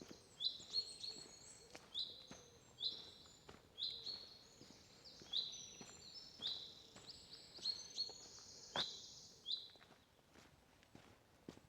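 Woodland songbirds chirping, with a run of short high notes repeated every half second or so, which stop about ten seconds in.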